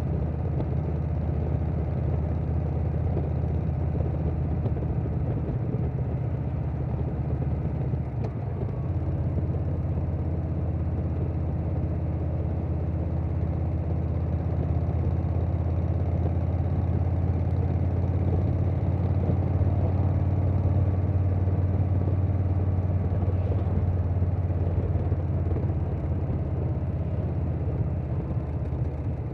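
2020 Harley-Davidson Softail Standard's Milwaukee-Eight V-twin running at cruising speed through a Vance & Hines Big Radius 2-into-2 exhaust, with wind rush over the bike. There is a brief dip and change in the engine note about eight seconds in, and the engine builds slightly later on.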